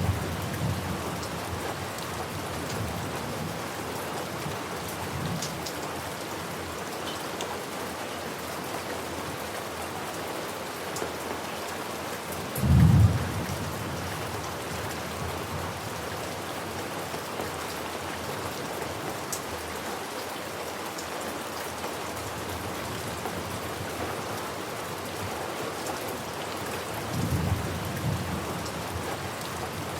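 Steady rain falling, with low rolls of thunder; the loudest thunderclap comes about halfway through and a softer roll near the end.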